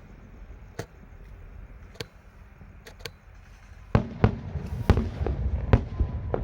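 Fireworks going off: a few single sharp bangs spaced about a second apart, then from about four seconds in a quicker, louder run of bangs over a low rumble.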